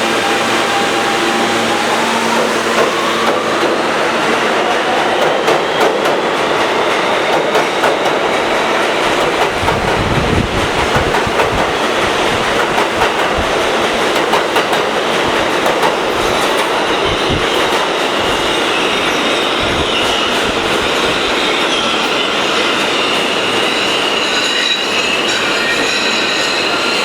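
R160B subway train with Siemens propulsion accelerating away, its propulsion whine climbing steadily in pitch over the first several seconds. Wheels click over rail joints through the middle, and high wheel squeal comes in near the end.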